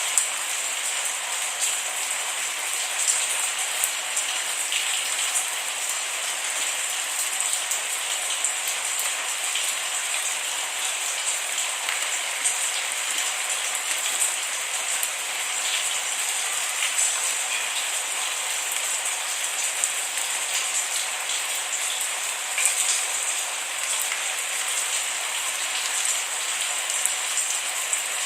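Steady rain falling, a dense even hiss peppered with fine drop ticks, with no thunder.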